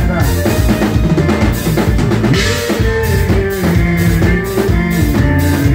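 Live forró band playing an instrumental passage, with a drum kit keeping a steady beat under bass and held melody notes.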